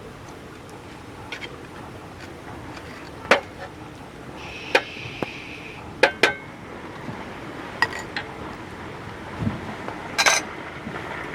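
Scattered sharp clinks and knocks of metal utensils against cookware, about six in all, over a low steady background, with a brief high ringing tone in the middle.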